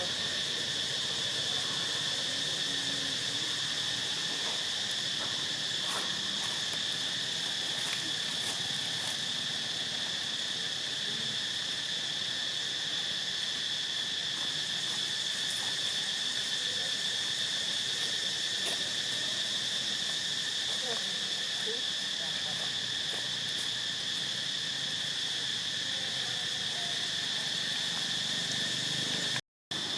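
A steady, high-pitched insect chorus shrilling without a break, with a few faint clicks on top. It cuts out briefly to silence just before the end.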